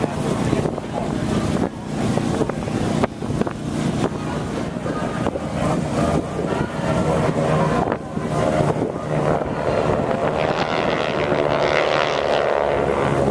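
Wind buffeting the microphone over a steady engine noise. In the second half an aircraft's pitched engine tone swells, loudest near the end.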